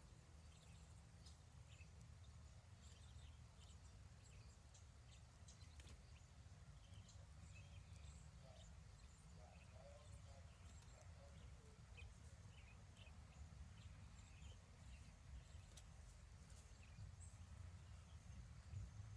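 Near silence: faint outdoor ambience with a steady low rumble and scattered faint bird chirps.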